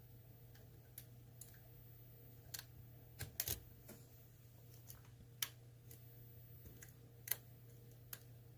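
Pick and tension tool working inside an ASSA Twin pin-tumbler lock: sparse, irregular light metallic clicks and ticks as the pins are probed, a few sharper clicks standing out.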